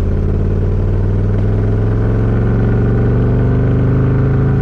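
Camaro's 5.0 V8 running through new mufflers, pulling in first gear under gentle acceleration, its pitch rising slowly and steadily.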